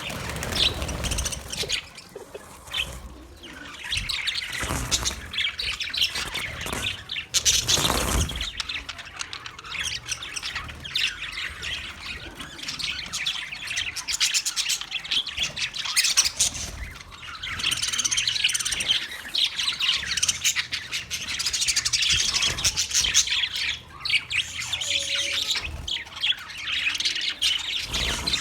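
Budgie (budgerigar) chirping and warbling in a continuous, busy chatter, with a louder burst about eight seconds in.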